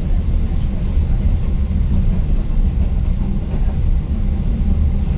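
Steady low rumble of a Newag Impuls 36WED electric multiple unit running along the line, heard from inside the passenger car.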